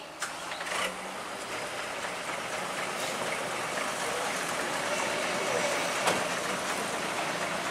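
Heavy machinery running steadily, with a few sharp clanks.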